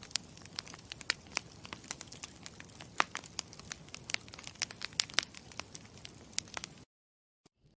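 Campfire crackling: irregular sharp pops and snaps over a low steady rumble, cutting out abruptly about seven seconds in.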